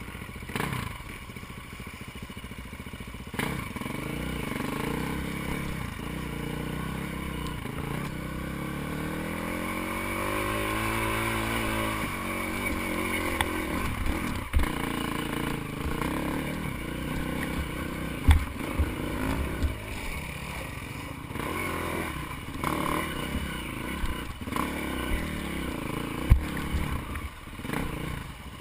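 Dirt bike engine running, revving up in a rising pitch about a third of the way in and then dropping off, with clatter and several sharp knocks in the second half.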